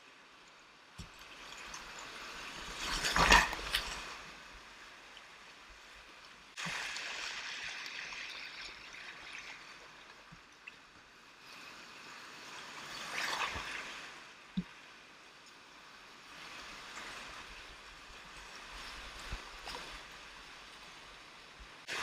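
Whitewater rapids rushing, with louder swells of splashing water about three seconds in and again about thirteen seconds in.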